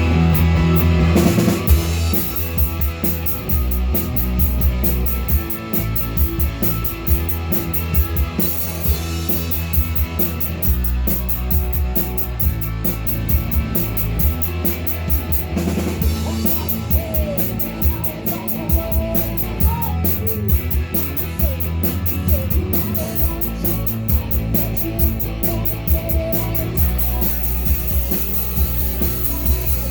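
Live rock band playing a song, with a drum kit and guitars.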